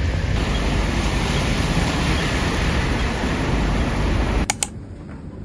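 Heavy rain with a steady hiss that breaks off abruptly about four and a half seconds in, after two sharp clicks, to a much quieter background.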